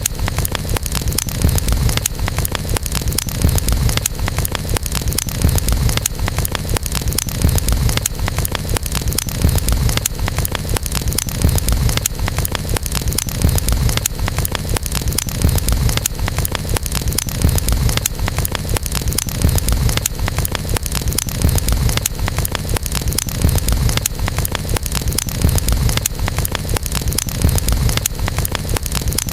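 Wood campfire burning, crackling with many small pops over a steady low rumble.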